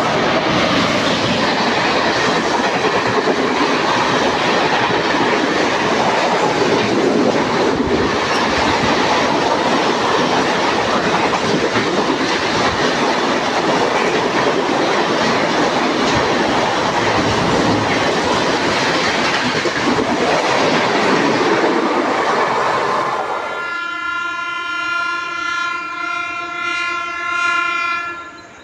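A Mumbai local train passing at speed: a loud, continuous rush of wheels and carriages for about twenty-three seconds. The noise then falls away and a train horn sounds one long steady note for about four seconds, stopping shortly before the end.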